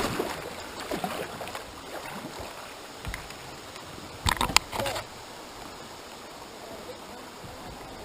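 Kayak paddling on a river: paddle strokes and water swishing, with a couple of sharp knocks about four and a half seconds in.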